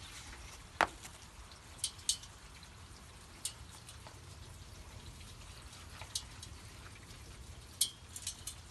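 Scattered drops of rain dripping and ticking onto a hard surface: single sharp ticks a second or more apart, the first and loudest about a second in, and a quick run of them near the end, over a low steady hum.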